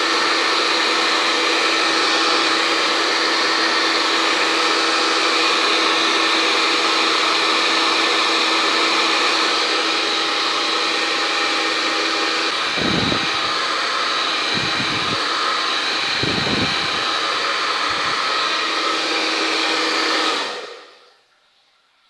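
Handheld hair dryer running steadily: a rush of air with a whine of several steady tones, broken by a few low gusts in its second half. It is switched off near the end and dies away within about a second.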